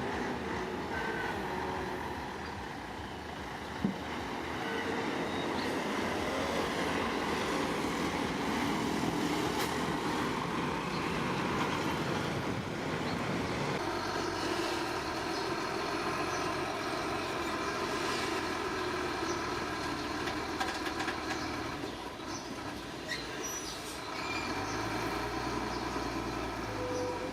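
Heavy diesel construction machinery running under load. The engine note shifts about fourteen seconds in, and there is one sharp knock about four seconds in.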